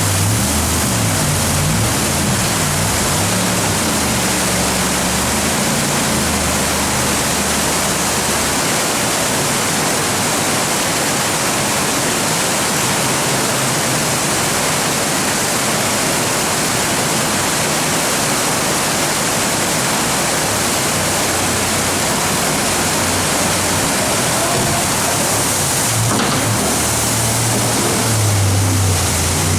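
Steady rush of river whitewater through a rapid. Underneath it, a jet boat engine runs, its pitch rising and falling over the first several seconds. The engine fades under the water noise, then comes back near the end.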